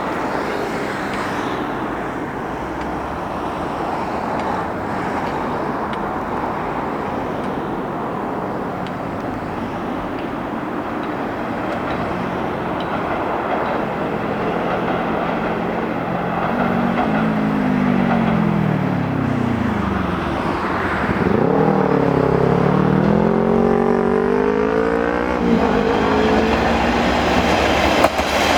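Steady outdoor traffic noise, then a vehicle engine about two-thirds of the way in: its pitch falls, jumps back up and climbs for a few seconds, then drops off.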